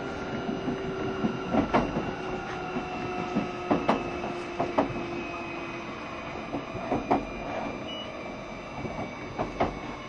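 JR Shikoku 7200 series electric train heard from on board, running along the line: wheels click over rail joints at irregular intervals over a steady rumble. Faint motor tones drift slowly lower in pitch as the train slows.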